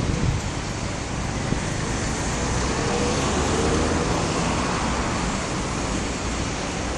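Steady road traffic noise, with a vehicle engine's hum rising slightly in pitch about three seconds in.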